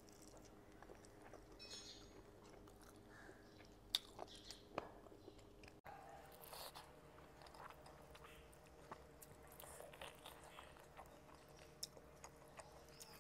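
Quiet, close-miked chewing and mouth sounds of a person eating smoked fish and rice by hand, with soft scattered clicks and a sharper click about four seconds in.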